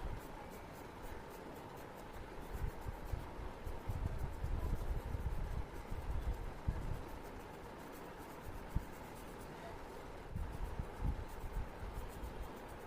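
A paintbrush rubbing and stroking across watercolour paper, with low, irregular bumps from handling the paper and table, over a faint steady hum.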